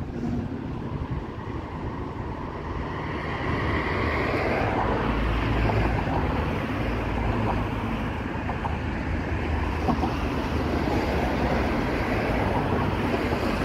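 Freight train running through the terminal, a low steady rumble that swells about three seconds in and then holds, with wind buffeting the microphone.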